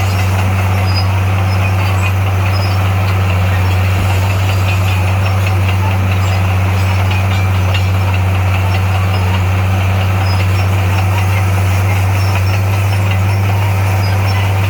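Heavy diesel engine of a construction machine running at a steady speed with a deep, even hum.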